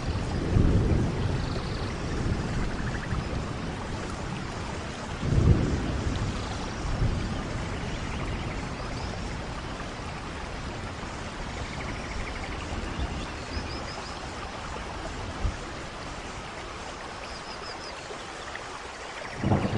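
Steady rain with low rolls of thunder: one swells about five seconds in, and another builds right at the end.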